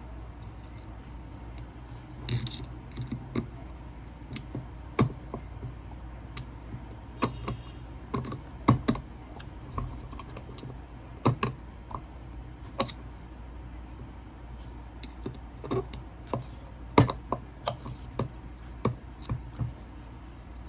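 Irregular small clicks and knocks of tools and metal parts being handled while an angle grinder's gear housing is taken apart, with the sharpest knock about 17 seconds in. A steady low hum runs underneath.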